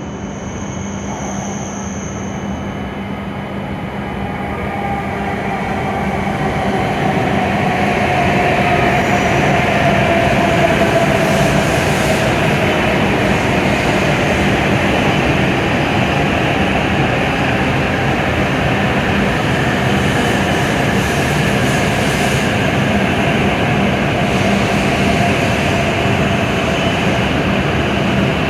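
W7-series Shinkansen pulling into the platform: a steady rumble and rush of running noise that grows louder over the first ten seconds, then holds, with a whine that falls in pitch as the train slows.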